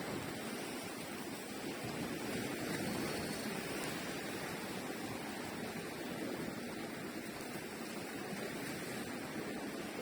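Sea waves: a steady rushing wash with gentle swells in level.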